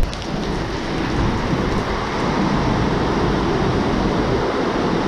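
Heavy rain: a steady, even hiss that cuts in abruptly with a click at the start.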